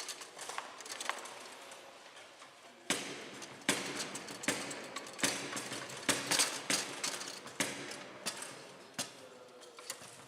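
Foosball play on a Bonzini table: an irregular series of sharp knocks and clacks as the ball is struck by the figures and the rods knock against the table. It starts about three seconds in.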